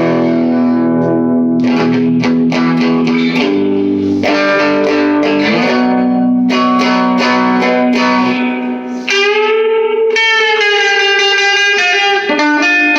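Electric guitar played through an all-tube amp with the guitar's volume and tone knobs full up, clean and bright: a pentatonic scale lick of picked notes and chords ringing together, then about nine seconds in a note bent up and held with vibrato.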